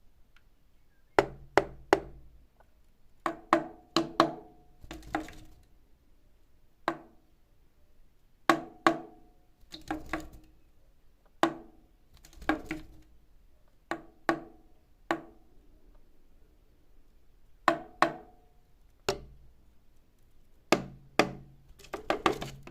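Irregular sharp knocks with a brief hollow, pitched ring, coming singly and in quick runs of two to four.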